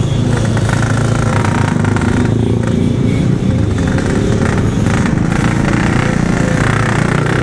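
Yamaha RX-King's single-cylinder two-stroke engine running at low, steady throttle while the bike is ridden slowly. The engine is pulling weakly, down on power after a broken reed-valve petal was drawn into it.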